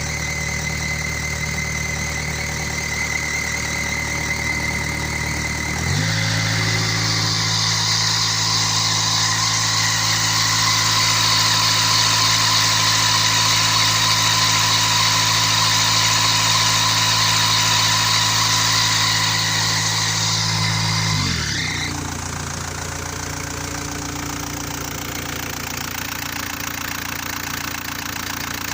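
Road roller's diesel engine idling, then revved up about six seconds in and held at a steady higher speed until it drops back to idle about twenty-one seconds in. It is being run to check for an abnormal noise.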